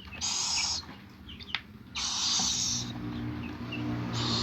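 Baby bird of prey giving hungry hissing begging calls: two harsh hisses, each under a second, with a third starting near the end. A sharp click comes between the first two.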